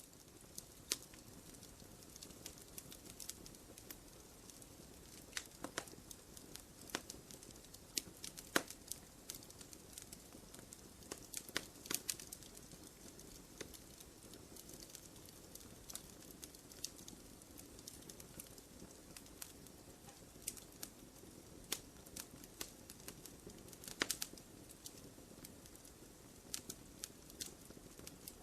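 Wood fire crackling in a fireplace: irregular sharp pops and snaps over a soft steady hiss of the burning logs, with a few louder pops.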